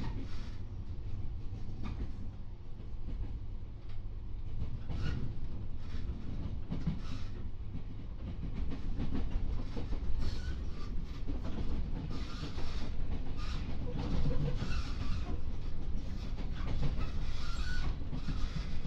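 Inside the passenger car of a JR 415 series electric multiple unit running on the line: a steady low rumble of wheels and running gear, with wheels clacking over rail joints now and then.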